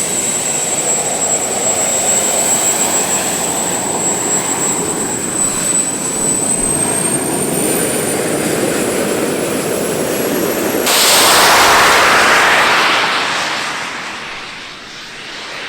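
Model jet aircraft's turbine whining high and steadily over a rushing jet noise, the whine rising in pitch after about six seconds. About eleven seconds in, a sudden loud rush as the jet passes close, fading away over the next few seconds.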